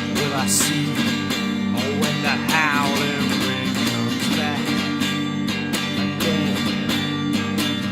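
Acoustic guitar strummed in a steady rhythm during a wordless stretch of a live song, with a wavering melody line over it about two and a half seconds in.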